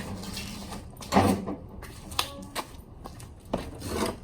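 A few separate knocks and clunks, with a short squeak about two seconds in.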